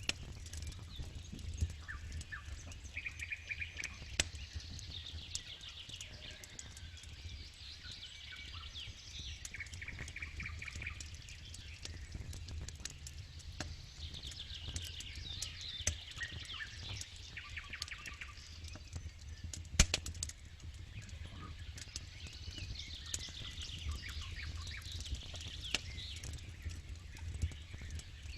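Campfire crackling with scattered sharp pops, one much louder pop about two-thirds of the way through. Birds sing repeated trills behind it.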